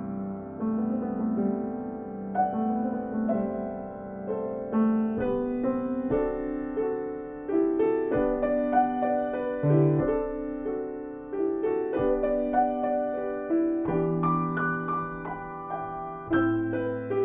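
Piano playing slow music, with notes and chords struck about once a second and left ringing.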